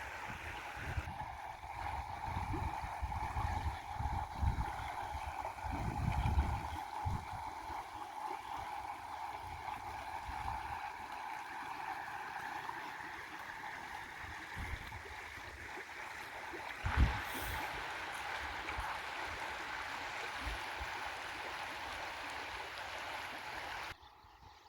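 River water flowing steadily with a gurgling hiss, under irregular low rumbles in the first few seconds and a single thump about seventeen seconds in. The water sound cuts off abruptly just before the end.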